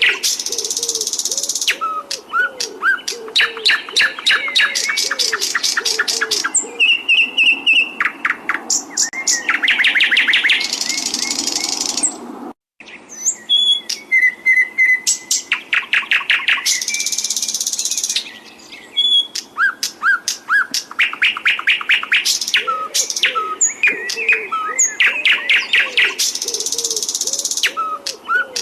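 Songbird song: fast trills, rapid strings of sharp repeated notes and buzzy high passages, with a lower repeated call underneath in places. It breaks off for a moment about halfway through, then carries on.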